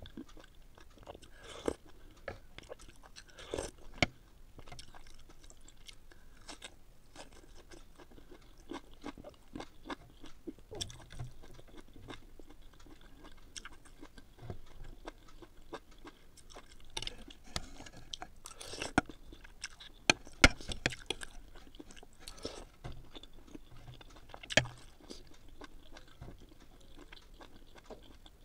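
Close-miked eating sounds: a person chewing and crunching green vegetables such as broccoli and vegetable stalks, in irregular clusters with scattered sharp clicks and smacks.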